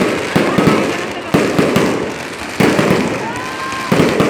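Aerial fireworks bursting: a rapid string of sharp bangs, several close together, each trailing off in a rumble, with crackling between them.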